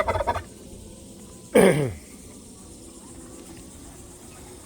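A single short animal cry about a second and a half in, its pitch falling steeply, over a steady low farmyard background.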